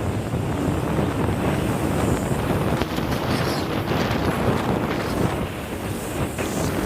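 Heavy wind buffeting the microphone over rushing water and spray while riding a jet ski at speed.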